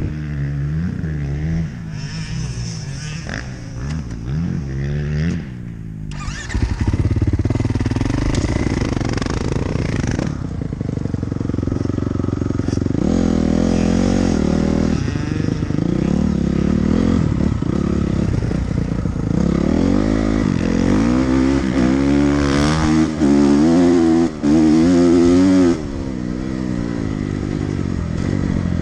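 Dirt bike engine revving up through the gears and backing off again and again, its pitch repeatedly climbing and dropping.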